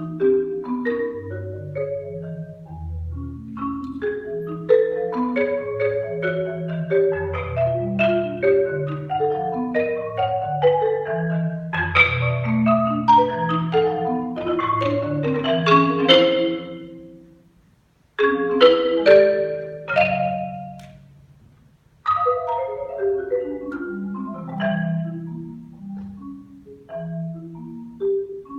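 Solo marimba played with mallets: fast runs of short notes across the low and middle range. Twice the playing dies away briefly, then comes back in with a loud stroke.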